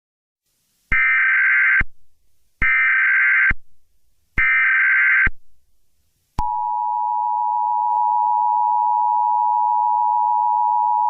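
Emergency Alert System tones: three short, identical screeching data bursts of the SAME header, followed by the long, steady two-note EAS attention signal that begins about six seconds in.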